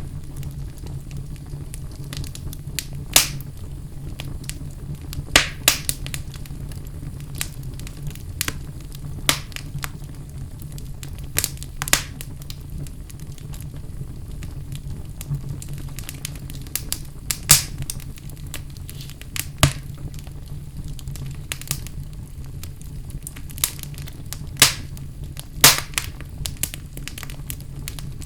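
Wood fire burning in a fireplace: a steady low rumble of flames with sharp crackles and pops at irregular intervals.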